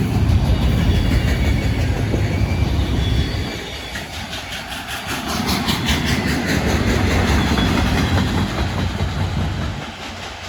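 Freight train passing close by: a steady low rumble of the cars with wheels clacking over the rail joints, fading away near the end.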